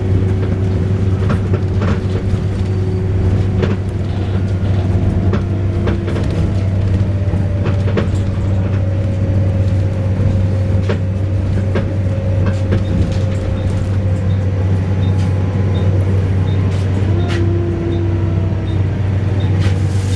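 Volvo B7RLE single-deck bus running under way, its straight-six diesel giving a steady low drone under a loud wailing whine that slowly drifts and falls in pitch, with scattered sharp rattles.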